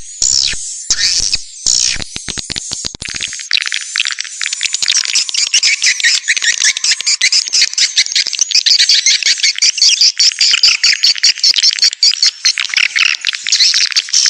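Swiftlet call lure track (suara panggil): an edited recording of edible-nest swiftlets twittering, meant to draw wild swiftlets into a swiftlet house. It is a dense, high-pitched chatter of rapid chirps, broken into short bursts for the first three seconds, then continuous.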